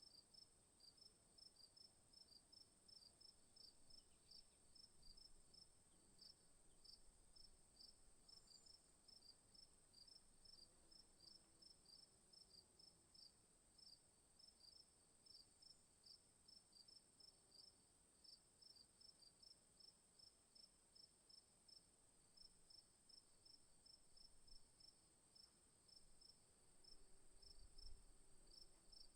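Faint insect chorus: a steady high-pitched trill with regular chirps at about three a second. A brief low rumble comes near the end.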